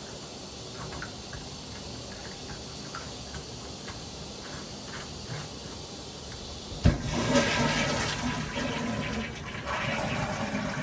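Rebuilt Sloan flushometer valve on a toilet hissing steadily; about seven seconds in, a sharp thump as the valve opens, then the rush of water of the flush. Hissing like this is typical of such a valve until it is flushed, which clears it.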